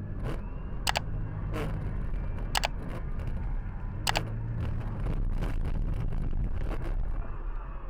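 A car driving, with a steady low rumble of engine and road noise and a few sharp clicks at irregular intervals.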